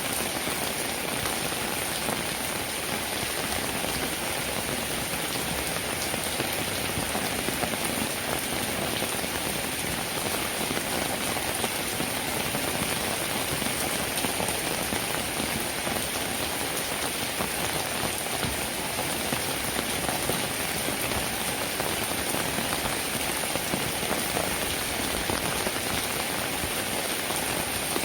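Steady rainfall: a dense, even patter of raindrops with no let-up.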